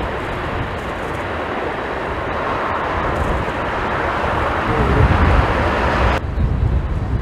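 Jet airliner engine noise, a steady rushing sound that grows louder over several seconds, with gusty wind buffeting the microphone. The jet noise cuts off suddenly about six seconds in, leaving the wind rumble.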